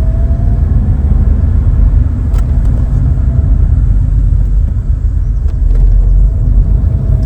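Vauxhall Cavalier's 2-litre four-cylinder engine and road noise under way, heard inside the cabin as a steady low rumble with a faint steady whine above it.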